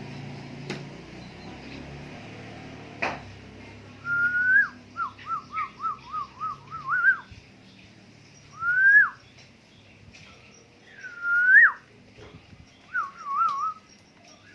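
Black-naped oriole giving clear, fluty whistled phrases: a rising note, then a quick run of about nine notes, two separate upswept whistles and a short trill near the end.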